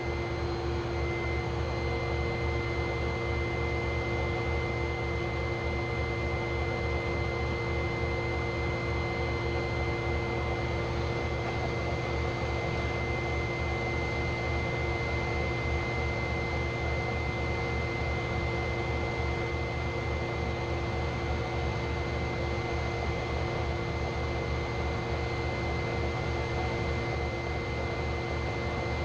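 Metal lathe running steadily: an even motor hum with a constant high whine.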